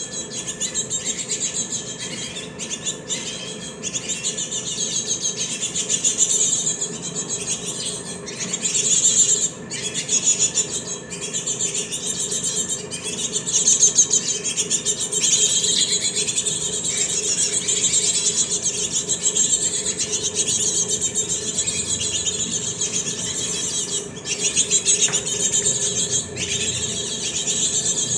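Young cinereous tits chirping and squeaking continuously, in rapid high-pitched calls with a faint steady hum underneath.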